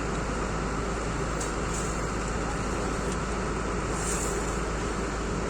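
Steady din of vehicle engines and road traffic at a street under construction, with a few brief high hisses.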